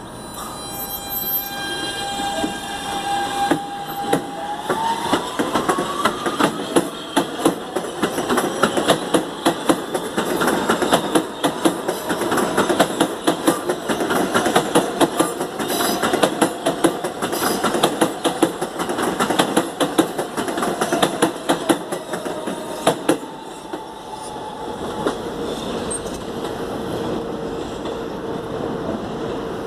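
New York subway train moving through a station. A motor whine rises in pitch about four seconds in as the train gathers speed, then the wheels clack quickly over the rail joints for most of the clip before easing into a steadier run near the end.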